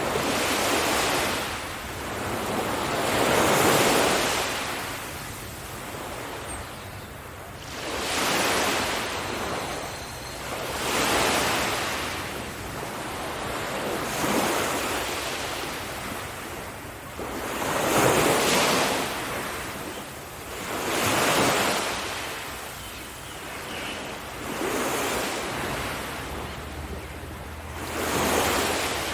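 Sea waves breaking on a beach, coming in repeated surges about every three seconds, each one swelling to a hiss and fading away.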